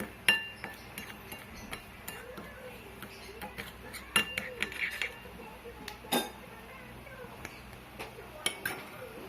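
Spoon stirring instant coffee, sugar and hot water in a glass, clinking irregularly against the glass; the stirring dissolves the sugar. The loudest clinks come about a third of a second in, around four seconds and around six seconds.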